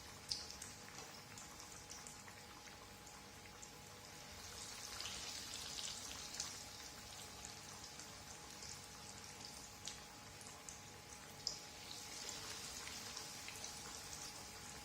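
Breadcrumb-coated chicken cutlets frying in hot cooking oil in a kadai: a steady sizzling hiss with scattered crackles and pops, the sharpest just after the start and again around the middle and later on.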